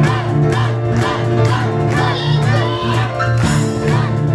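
Live instrumental music from piano and cajón: a driving piano passage over a steady cajón beat, shifting to a new texture about three and a half seconds in.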